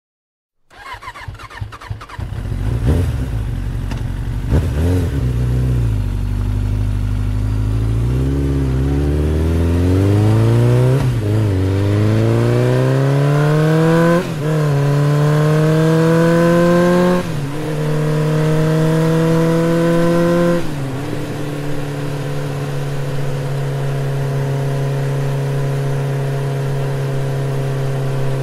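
A motor vehicle engine accelerating through the gears: its pitch climbs steadily, drops back at each of four shifts, then settles into a steady cruise for the last several seconds.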